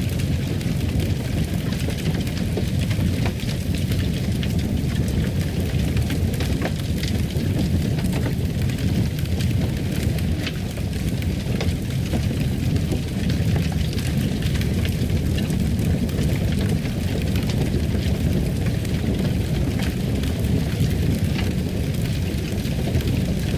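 Fire crackling in a fireplace: a steady low rush with many small scattered pops and crackles.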